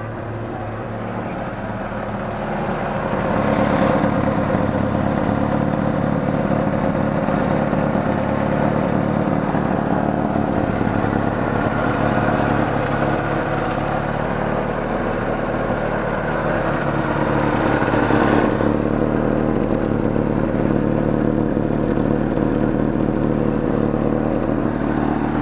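Chevrolet Opala four-cylinder engine running with a deep rumble. It revs up about two to four seconds in and is held at raised revs, then eases back a little at about eighteen seconds.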